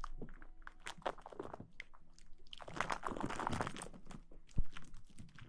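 Close-miked ASMR rustling: a string of crackles and crunchy, crinkling rustles, thickest in the middle. A single low thump on the microphone comes about four and a half seconds in.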